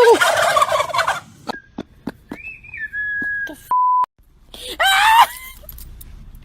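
A turkey gobbling in a fast rattling burst, followed by a held whistle-like tone that steps down in pitch, a short steady beep about four seconds in, and a brief rising call near the five-second mark.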